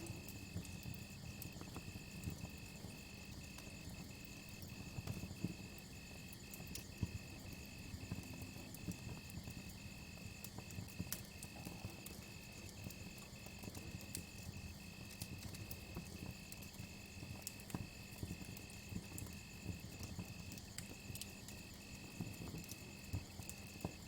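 Campfire crackling with many small irregular pops, under a cricket chirping in a steady, even rhythm.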